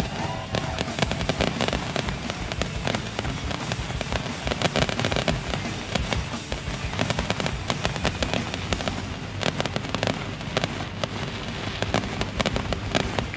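Aerial firework shells bursting overhead in quick succession, a continuous run of bangs and crackling.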